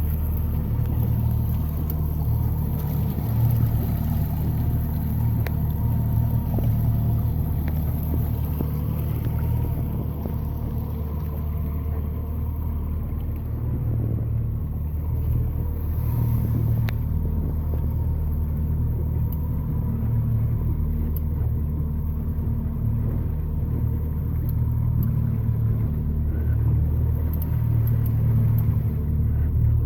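Outboard motor running at a steady speed, a low even drone that holds unchanged throughout.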